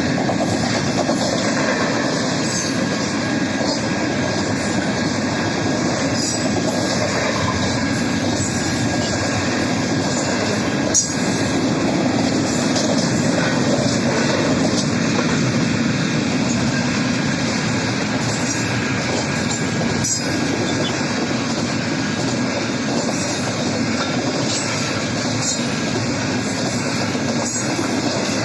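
BNSF doublestack intermodal freight train rolling past at a crossing: a steady rumble and clatter of steel wheels on rail, with a faint thin wheel squeal and one sharp clank about 11 seconds in.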